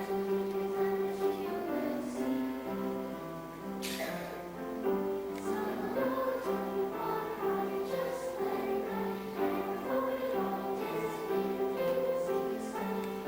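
A choir singing a song to instrumental accompaniment, with a single sharp click about four seconds in.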